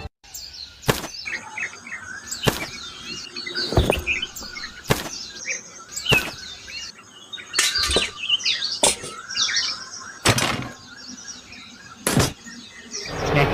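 Birds chirping in short, wavering calls, with a sharp click about every one to two seconds.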